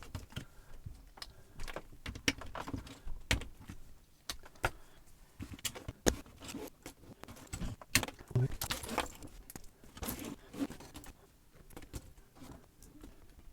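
Small plastic building bricks clicking and rattling as pieces are handled and pressed together, in irregular single clicks with a denser clatter about halfway through.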